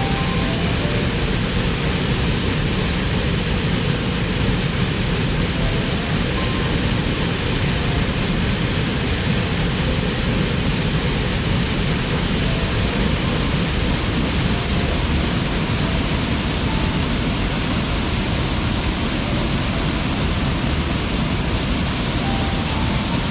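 Steady, unbroken roar of a waterfall, water pouring and splashing continuously.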